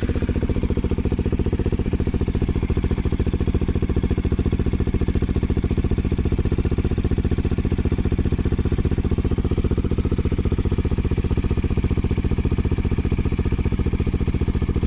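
Bajaj Dominar 400's single-cylinder engine idling steadily through an aftermarket IXIL X55 full-system exhaust, with a deep, even beat of exhaust pulses.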